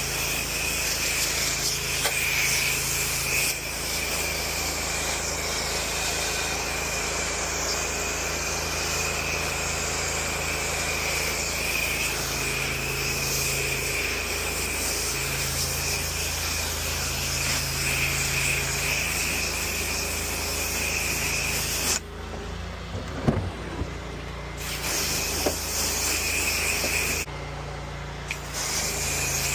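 Pressure washer spraying: a steady hiss of water over the hum of its engine-driven pump. The spray cuts out twice, for about two seconds and then about a second, while the engine keeps running, with a sharp knock during the first pause.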